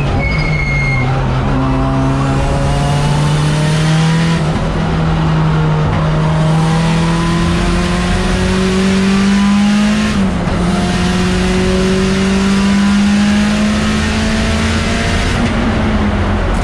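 Mitsubishi Lancer Evolution X race car's turbocharged 2.0-litre four-cylinder engine heard from inside the cabin, pulling hard with its pitch climbing steadily. The pitch dips at an upshift about ten seconds in, climbs again, then falls near the end.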